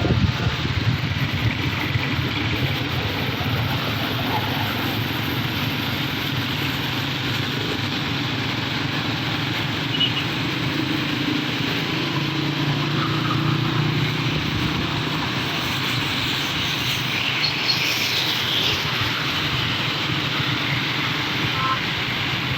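Car driving through the rain on wet roads: a steady hiss of tyres and road noise.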